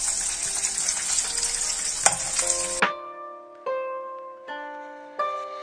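Pork sausages sizzling in butter in a frying pan, with a single click about two seconds in. The sizzle cuts off abruptly near the three-second mark and instrumental music takes over.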